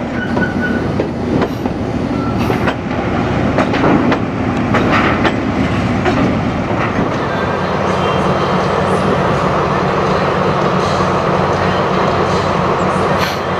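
Train running on the rails, with irregular clanks and knocks over roughly the first seven seconds, then a steadier running noise.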